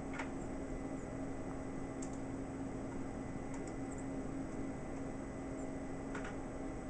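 A few faint, short, high-pitched bird chirps over a steady hum and hiss, with two slightly stronger brief calls, one just after the start and one near the end.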